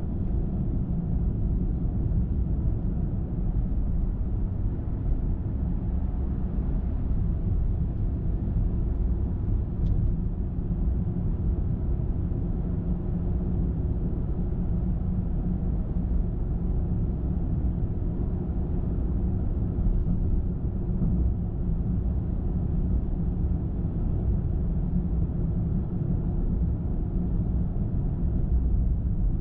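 A car driving at a steady speed: an even, low rumble of tyre and engine road noise that holds level with no break.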